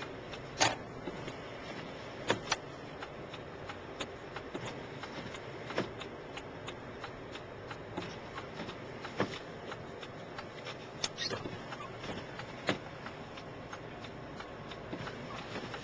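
Steady road and engine noise heard inside a car driving through snow, with a few sharp clicks scattered throughout.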